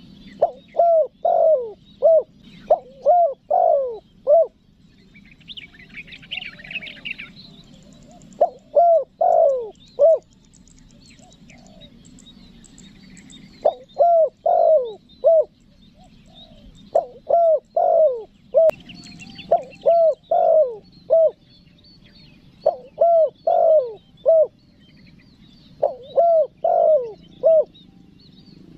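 Spotted dove (tekukur) cooing its calling song in repeated phrases of several coos each, with pauses of a few seconds between phrases; this is the call used to lure wild doves. Smaller birds chirp faintly behind it, with a brief burst of chirping about six seconds in.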